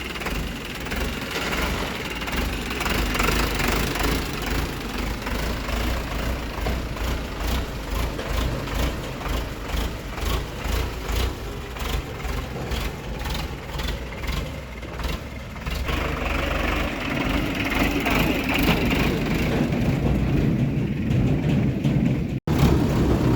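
Tractor engine running, a steady low throb with rapid, evenly repeating beats.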